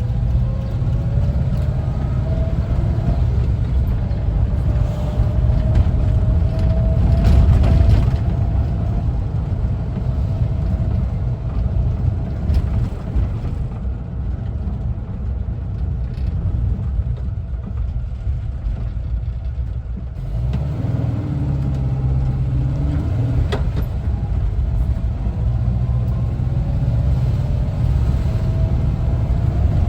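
1974 Volkswagen Westfalia camper's air-cooled flat-four engine running on the move, with a pitched whine rising over the first several seconds as it accelerates. It eases off around the middle, the engine note changes about two-thirds of the way in with a single click, and the pitch rises again near the end.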